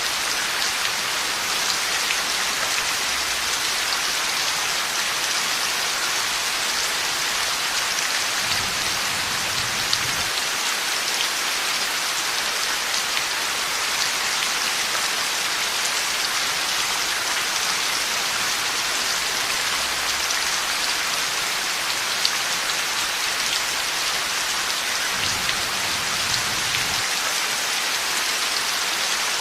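Heavy rain falling steadily in a dense, even hiss, with two faint low rumbles of distant thunder, about a third of the way in and again near the end.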